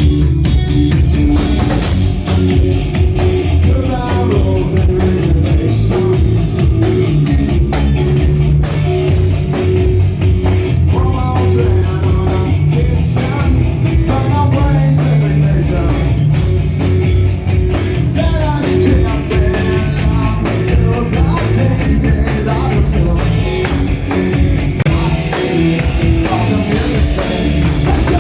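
Live rock band playing loud: guitars, bass and drum kit, with a singer's voice over them.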